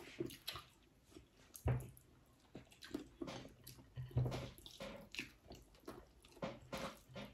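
Close-up chewing and wet mouth sounds of people eating rice and fish with their hands, with scattered small clicks and two louder soft thumps, about two and four seconds in.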